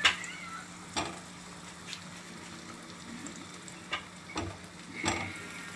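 Slices of cheese frying in hot oil in a frying pan, a steady sizzle, with several sharp taps and clicks in the pan as more pieces are laid in, the loudest right at the start.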